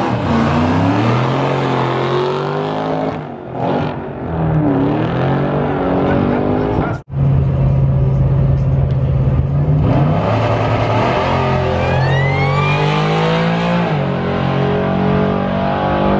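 Drag-racing cars' engines revving at the starting line and pulling away down the strip, loud throughout, with pitch climbing and dropping. The sound cuts out for an instant about seven seconds in, and a thin rising whine rides over the engines a little after two-thirds of the way through.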